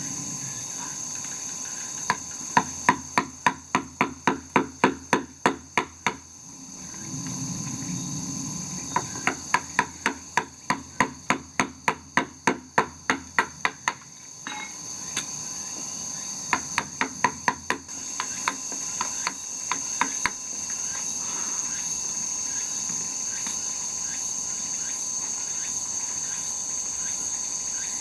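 Hammer blows in three quick runs of even strokes, about three to four a second, separated by short pauses. A steady high-pitched insect chorus buzzes underneath throughout.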